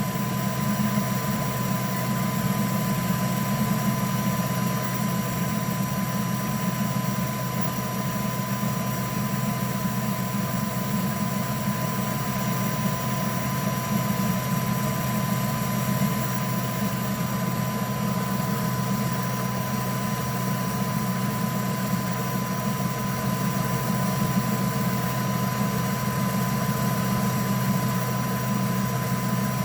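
3D printer running, a steady mechanical hum of its fans and stepper motors with a constant high whine over it.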